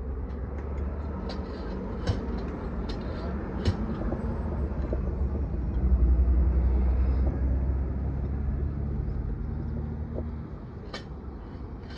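Low rumble of a passing vehicle that swells to its loudest about six seconds in and then fades, with scattered sharp clicks and knocks.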